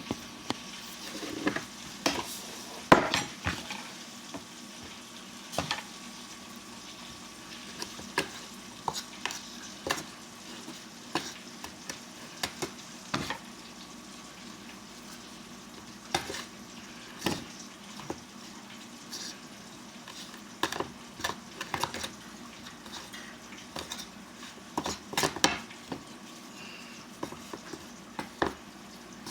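Chicken strips frying in hot oil with a steady sizzle, while more raw chicken is mixed and tossed in a pot to coat it, giving irregular knocks and clinks of utensil against pot.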